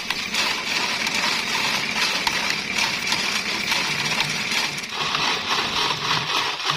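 Dense, continuous rapid rattling and clicking, with a metallic ring to it and no steady pitch.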